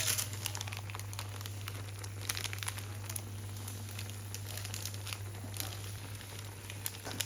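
Crinkling and rustling with scattered light clicks over a steady low hum.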